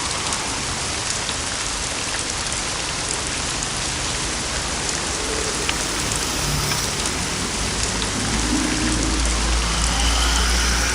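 Steady rain falling, with scattered drop ticks; a low rumble swells over the last few seconds.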